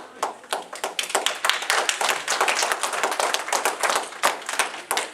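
Audience applauding, with many separate claps overlapping irregularly.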